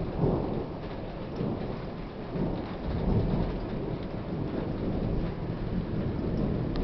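Thunder rumbling over steady heavy rain. The rumble swells just after the start and again about three seconds in.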